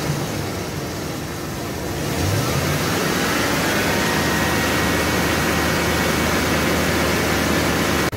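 Chevy 5.3L LS V8 engine idling, then revved up about two seconds in and held at raised rpm. The engine is leaking combustion gas into its cooling system, which the mechanic puts down to a blown head gasket, cracked head or cracked block.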